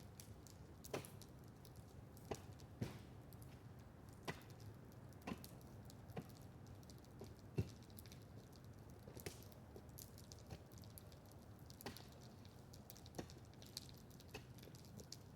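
Faint wood bonfire crackling: irregular sharp pops and snaps about once a second over a low steady hum, with one louder pop about halfway through.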